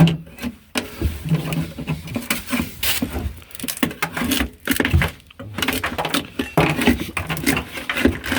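A hand scraper scraping and knocking at a car's bare metal floor pan, in an irregular run of short scrapes and clicks.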